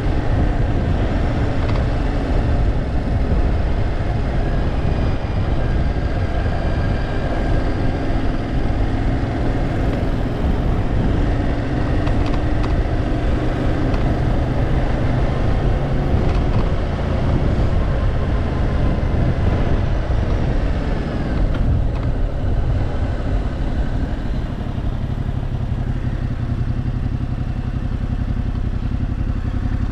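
Yamaha Tracer 700 being ridden: steady wind rush on the microphone with the engine running underneath, its pitch drifting up and down a little.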